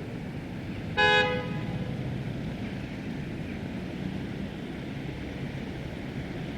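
A car horn gives one short honk about a second in, over a steady low background rumble.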